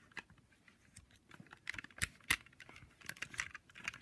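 Handling of a small die-cast toy and its plastic parts: a run of light clicks, taps and rustles, busier from about a second and a half in, with the sharpest clicks about two seconds in.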